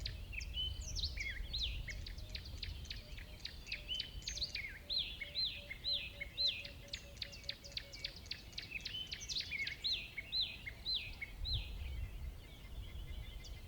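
A busy chorus of small birds chirping and twittering, many quick sweeping calls overlapping, over a low rumble. A faint, fast series of lower pips runs through the middle.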